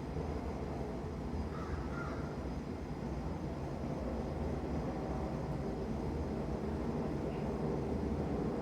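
Crows cawing, a short harsh call about one and a half seconds in and a brief one near the end, faint over a steady low rumble.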